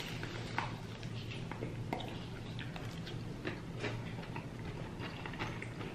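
Chewing and mouth sounds of people eating: small irregular wet clicks and smacks, over a steady low hum.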